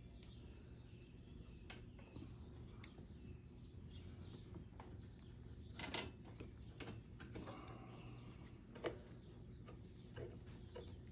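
Scattered clicks and knocks of small parts and tools being handled, the sharpest about six and nine seconds in, over a low steady hum, with birds chirping faintly in the background.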